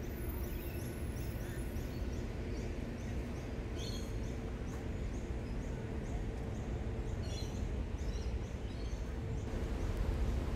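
A small bird chirping over and over, short high calls about twice a second, with a few louder calls mixed in. Beneath it runs a steady low rumble of distant city traffic.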